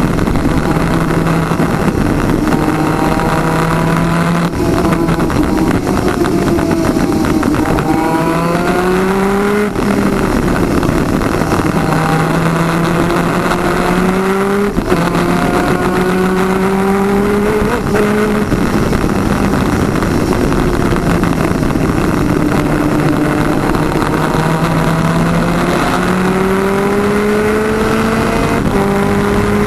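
Twin-cylinder 250cc two-stroke superkart engine running at race speed, its revs climbing and dropping back several times as it accelerates and slows.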